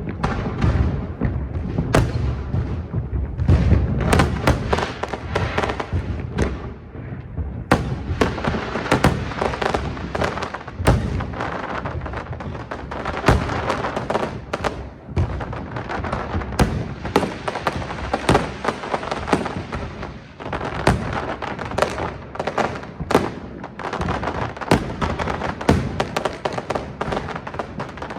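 Fireworks going off in rapid succession: a continuous run of bangs and cracks. The first several seconds carry deep, rumbling booms, and from about eight seconds in the bursts turn sharper and denser.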